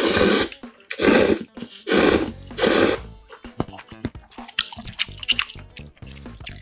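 Four loud slurps of budae-jjigae, about a second apart, followed by close-miked wet chewing with small clicks.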